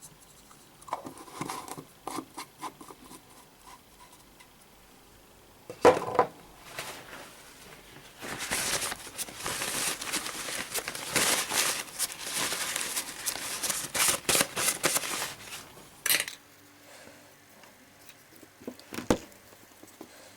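Small metal tools and parts being handled at a workbench: scattered clicks and taps, a sharp knock about six seconds in, then several seconds of dense scraping and rattling, and one more knock near the end.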